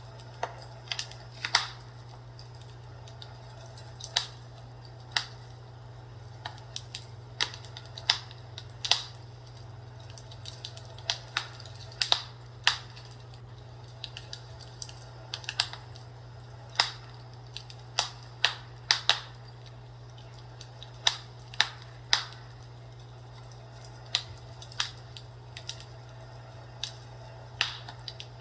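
Burning wood crackling and popping in a fireplace: irregular sharp snaps, one to several every second or two, over a steady low hum.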